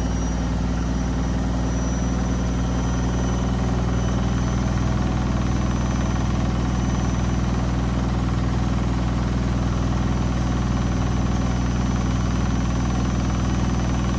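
Beko WMB 71643 PTE washing machine spinning, its brushed motor and drum running at a steady high speed with a deep, even hum and a faint high whine.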